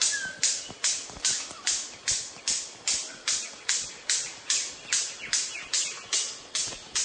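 Pulsing insect call, cicada-like: sharp hissing pulses about two and a half times a second, each cut off quickly, in a regular rhythm.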